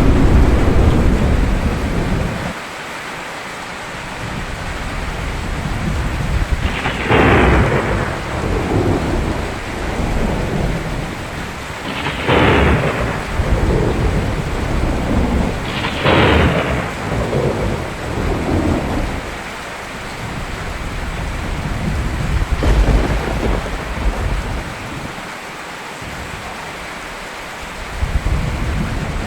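Steady rain with thunder. A low rumble at the start gives way to three sharp cracks of thunder about four to five seconds apart, each rolling away, and further low rumbles come later.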